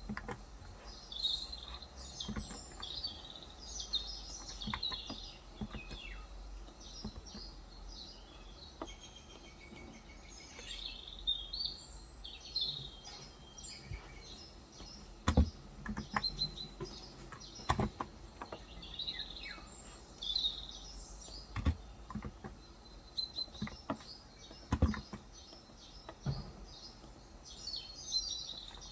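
Birds chirping in scattered bursts of short, high calls, with a few isolated sharp clicks in between and no steady typing.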